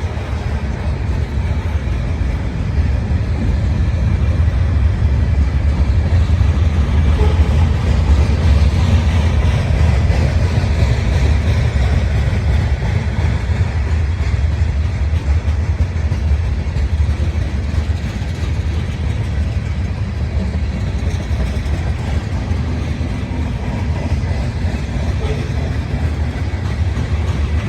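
Train rolling past with a steady, heavy low rumble of wheels on the rails, swelling a little in the middle.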